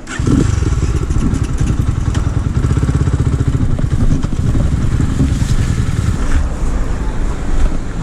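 Minsk SCR 250 motorcycle's single-cylinder engine running, coming in suddenly just after the start and holding steady.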